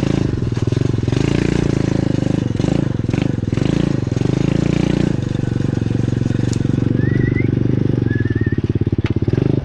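Pit bike engine running under the rider, the revs rising and falling as the bike works through mud, with a few short clicks and two brief high chirps in the second half.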